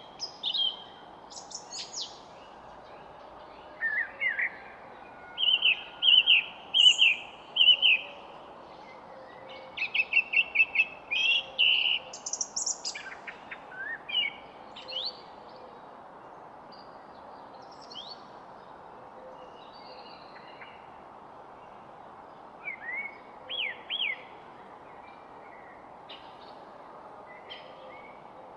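Several songbirds chirping and singing in short, rapid phrases over a steady background hiss. The calls are busiest in the first half and thin out to scattered chirps later, with a brief flurry near the end.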